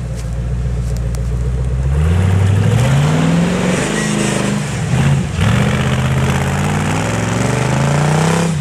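Off-road competition 4x4's engine revving hard under load. The pitch climbs about two seconds in, drops briefly near the middle, then climbs again.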